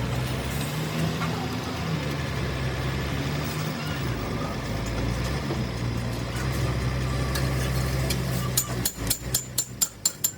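A motor vehicle engine running steadily with a low hum. Near the end come a quick run of about eight sharp metal strikes, like hammering.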